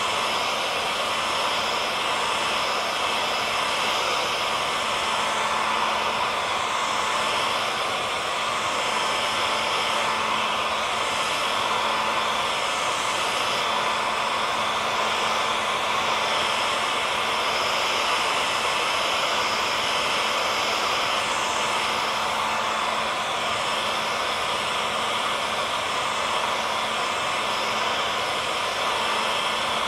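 Handheld hair dryer running steadily: a constant rushing air noise with a faint steady motor hum.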